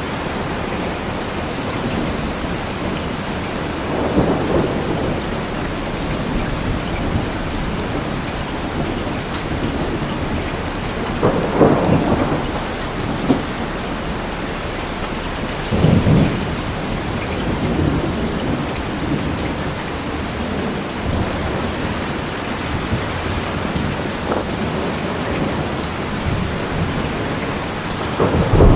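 Thunderstorm: steady rain falling, with thunder rumbling several times: about four seconds in, again around twelve and sixteen seconds, and a louder rumble building at the very end.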